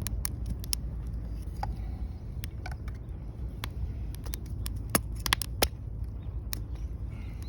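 Wood fire crackling: irregular sharp pops and snaps over a steady low rumble, with the loudest few pops coming close together about five seconds in.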